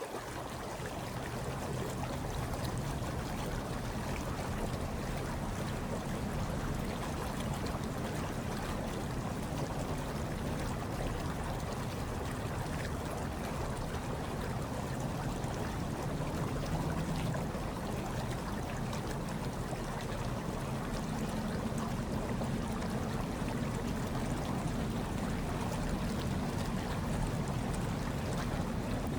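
Hot tub water churning and bubbling steadily, with a low, even rumble underneath.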